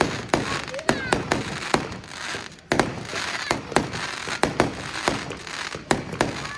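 Fireworks display: aerial shells going off in quick, irregular succession, about two bangs a second over continuous crackling, with the loudest bang about three seconds in after a short lull.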